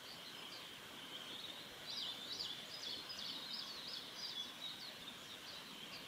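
A bird singing a rapid, jerky run of high notes for about four seconds, over a steady high-pitched background hiss.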